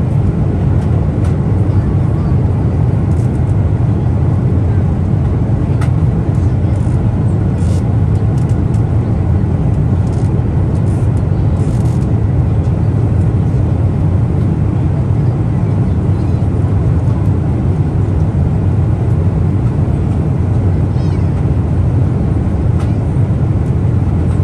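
Steady cabin roar of a Boeing 777-300ER airliner, a deep, even rumble of engine and airflow noise heard from inside the passenger cabin, with a few faint clicks in the middle.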